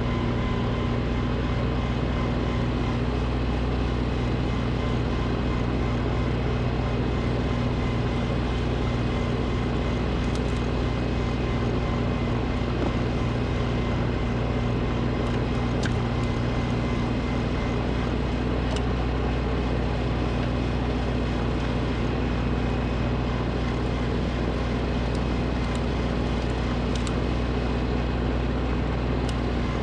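Snowblower engine running steadily at an even speed, with a few faint ticks.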